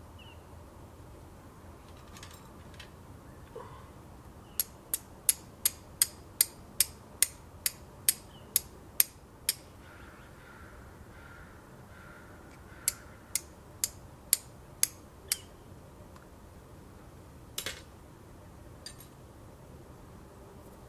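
Steel striker hitting flint to throw sparks onto char cloth: sharp metallic clicks, a run of about a dozen quick strikes, a pause, then six more and a last single strike.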